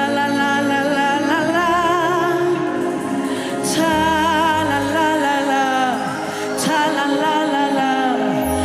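Gospel worship music: a singer holding long, wavering notes with vibrato over sustained accompaniment chords and a steady bass line, with two sharp cymbal-like hits about three seconds apart.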